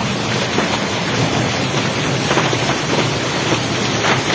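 Heavy downpour pelting a flooded street: a dense, steady hiss of rain with a constant spatter of drops hitting the water.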